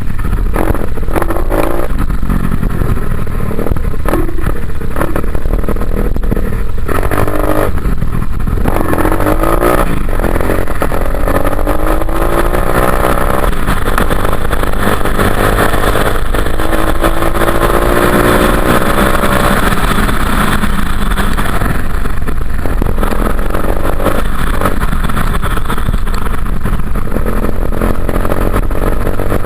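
Enduro dirt bike engine revving up and down as it is ridden, its pitch climbing and dropping through the gears, with one long rising pull around the middle.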